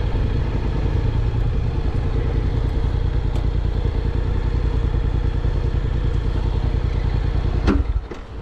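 Honda NC750X's parallel-twin engine running steadily. Near the end there is a sharp click and the sound briefly drops away.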